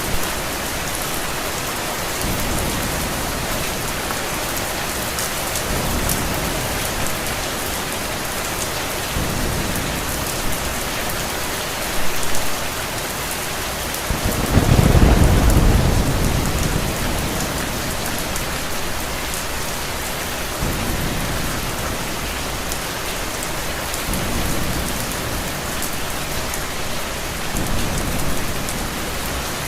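Steady heavy rain, with one long low roll of thunder about halfway through that swells and then slowly fades.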